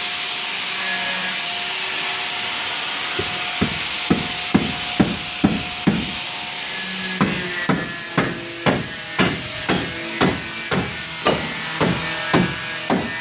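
Steady hiss, then hand-hammer blows starting about three seconds in, a steady run of about two strikes a second with a short pause midway, each strike ringing briefly.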